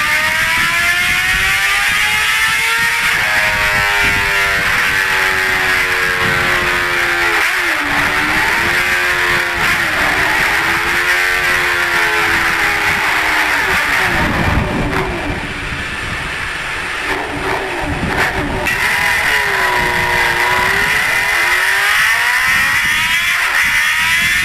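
Motorcycle engine revving and running, its pitch climbing and falling again and again as the throttle is opened and closed, with a quieter stretch about two-thirds of the way through.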